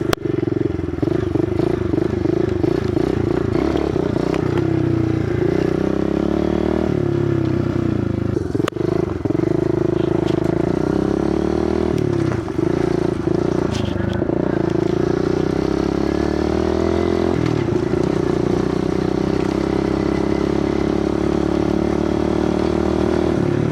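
Kawasaki KLX110 pit bike's small single-cylinder four-stroke engine running while being ridden, its revs rising and falling several times with throttle and gear changes.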